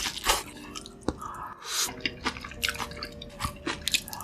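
Close-miked eating sounds: wet mouth clicks and smacks of chewing, coming irregularly, with a few brief slurping swishes.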